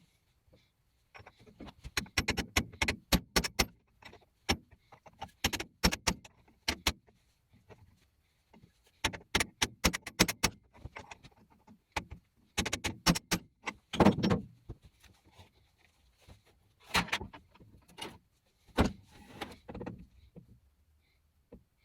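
Groups of sharp metallic clinks and knocks in quick succession, with short pauses between: hard metal parts or tools being handled and set down. No motor is running.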